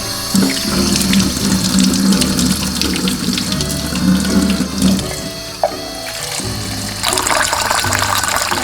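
Tap water running into a sink, its splash shifting higher about seven seconds in, over background music.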